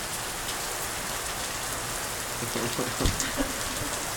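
Heavy rain pouring down steadily, drumming on surfaces in a Florida downpour.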